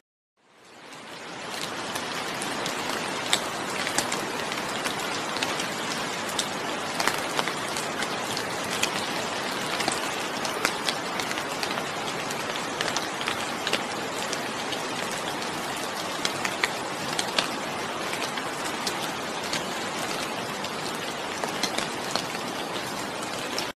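Steady rain, an even hiss dotted with many sharp individual drop ticks. It fades in from silence over the first couple of seconds and cuts off suddenly at the end.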